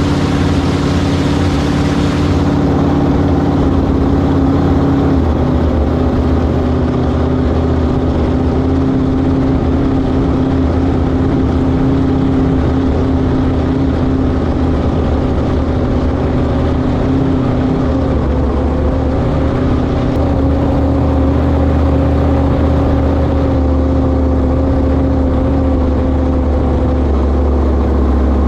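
Inboard engine of a 1971 Sanger flat-bottom V-drive boat running steadily under way. The pitch dips slightly about five seconds in and rises a little around eighteen seconds.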